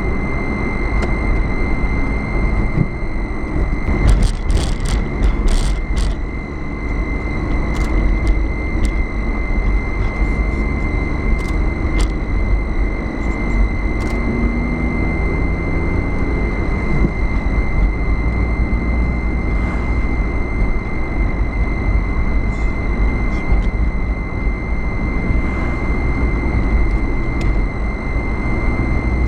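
Road and engine noise of a moving car heard from inside it: a steady rumble with a thin, steady high whine over it. A few faint clicks come between about four and six seconds in.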